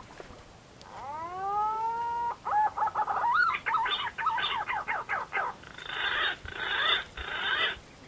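A bird calling loudly: one long note that rises and then holds, followed by a fast run of notes sweeping up and down, and three harsh raspy notes near the end.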